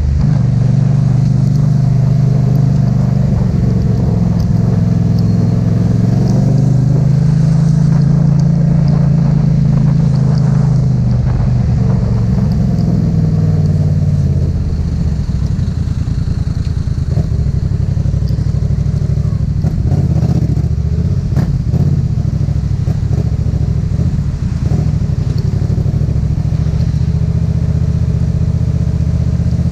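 Yamaha MT-07's 689 cc parallel-twin engine running under way, its pitch rising and easing off several times with the throttle.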